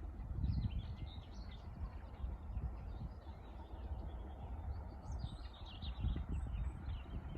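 Small birds chirping and singing in two spells, near the start and about five seconds in, over an uneven low rumble.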